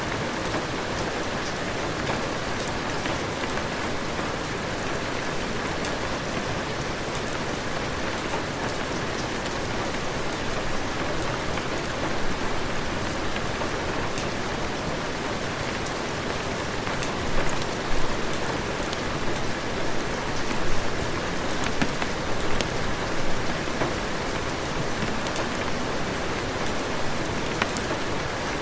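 Steady heavy rain, an even hiss with scattered sharp ticks of drops. The level swells briefly a few times in the second half.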